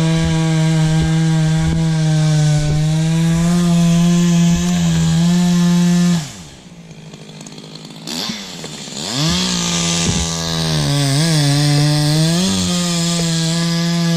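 Small two-stroke engine of a handheld cutting tool running at high revs. About six seconds in it drops to a low idle, then is revved back up to full speed a couple of seconds later, and its pitch sags briefly under load near the end.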